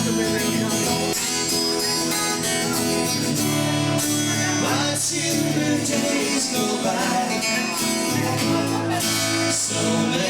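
Live band music from an original song, an instrumental stretch between sung lines.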